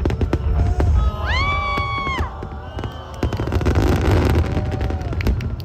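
Aerial fireworks bursting with dense crackling and low booms throughout, with music playing alongside. A high, held pitched note rises in about a second in and lasts about a second, and the crackle thickens in the second half.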